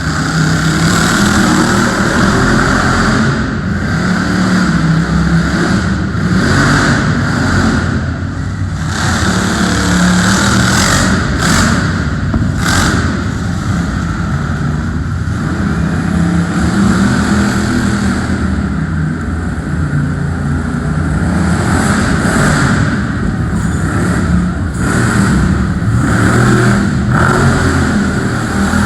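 Monster truck engine running loud and revving hard, its pitch rising and falling again and again as the truck drives its run.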